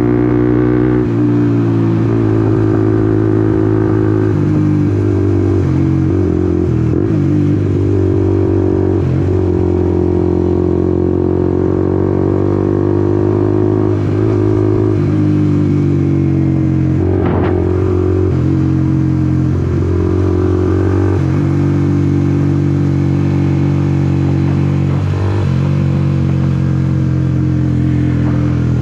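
Honda CBR150R's single-cylinder four-stroke engine running while riding, its note shifting up and down in pitch several times with throttle and gear changes.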